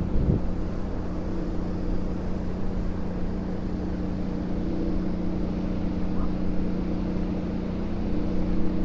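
A steady mechanical hum, like an engine running at constant speed, over an even rushing noise.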